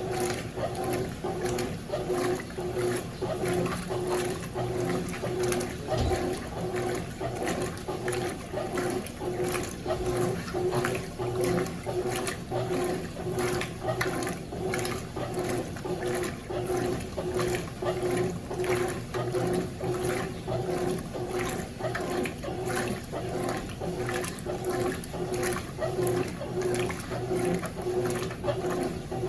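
Consul CWS12 12 kg washing machine running its wash cycle: water and a load of jeans churning over a steady motor hum, the sound pulsing about once a second.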